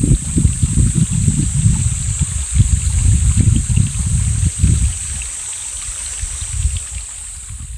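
Mountain valley stream running, with an irregular low rumble of water over a steady high hiss; the rumble eases off in the last couple of seconds.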